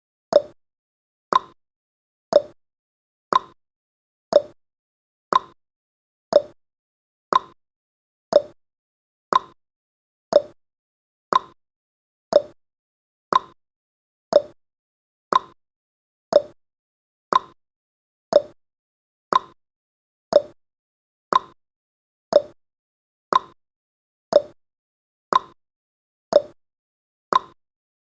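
Clock tick-tock sound effect of a countdown timer: one short click each second, alternating between a higher and a lower tick.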